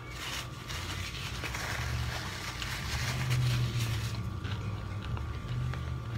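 A person chewing a mouthful of tuna sandwich with mouth closed, the wet crackly chewing strongest for the first four seconds and then fading, over a low steady hum.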